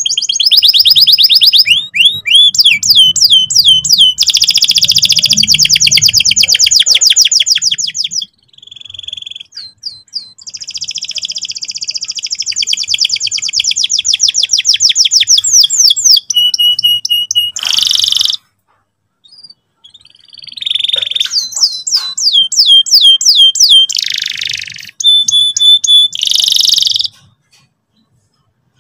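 Domestic canary singing, loud: long rolls of fast repeated notes in several phrases, broken by short pauses.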